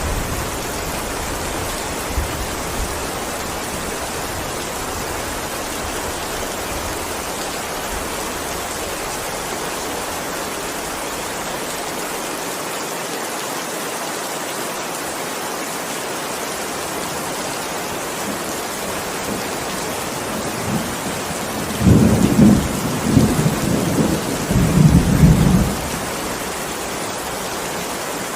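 Steady heavy rain, with a low roll of thunder about three-quarters of the way in that surges several times over about four seconds before dying back into the rain.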